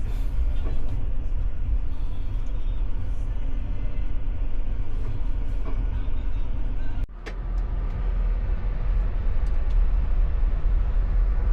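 Steady low rumble of a moving train, heard from inside a sleeper cabin, with an abrupt break about seven seconds in.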